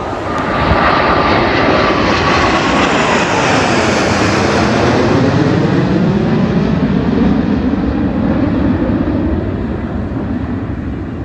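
Jet aircraft flying past. Its engine noise swells over the first second and stays loud, while a whine drops in pitch as it goes by, then eases off near the end.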